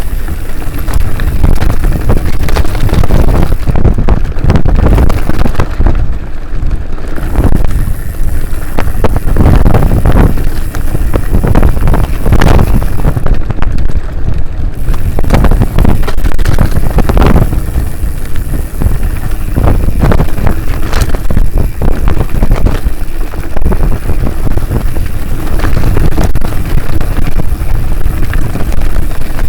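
Loud, continuous wind buffeting the microphone: a dense, rough rumble that rises and falls irregularly, with no clear engine note.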